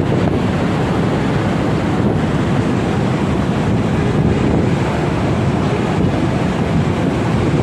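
Steady, loud rush of turbulent floodwater or surf, with wind buffeting the microphone.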